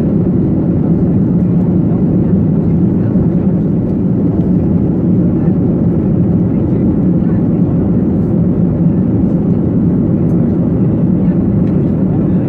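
Steady, unbroken airliner cabin noise, engines and airflow making a low drone with a constant hum, heard from inside the passenger cabin.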